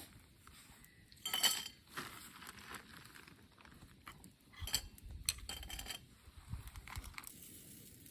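A few clinks and knocks of dishes and utensils being handled, the loudest about a second and a half in, with a brief low rumble under a cluster of knocks near the middle.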